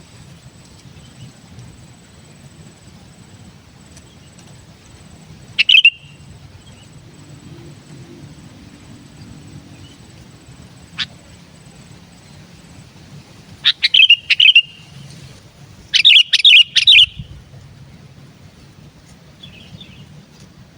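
Sooty-headed bulbul calling in short, loud bursts of quick chirps: once about six seconds in, a pair around fourteen seconds, then a rapid string of four or five notes, over a low steady background hum.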